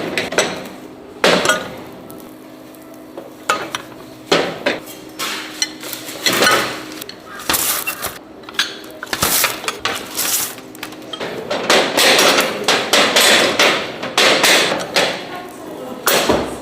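Metal kitchenware knocking and clattering: repeated sharp hits and clinks, growing into a denser run of clatter in the second half.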